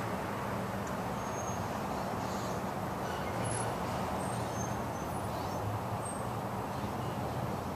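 Steady city traffic hum, an even low rumble with no breaks, with a few faint high bird chirps over it.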